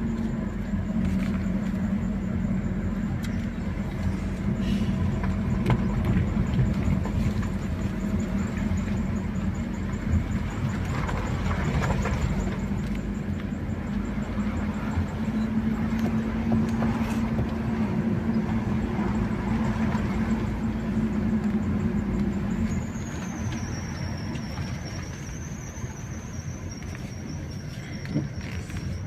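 Car driving: a steady engine hum over road noise, easing off and growing quieter about three-quarters of the way through.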